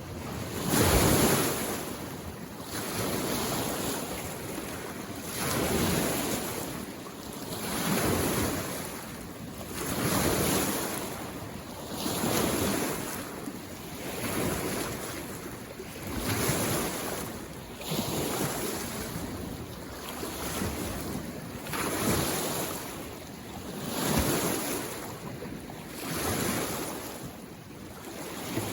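Small lake waves lapping against the shore. Each wash swells and fades about every two seconds.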